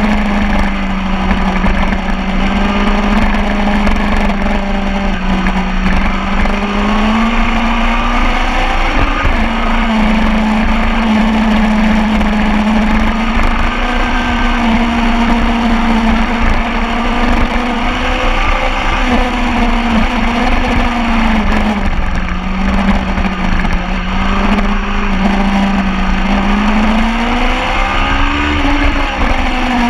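Superbike engine running hard on a race track, its note slowly rising and falling as the bike speeds up and slows, with a rise and drop near the end, over a steady rushing noise.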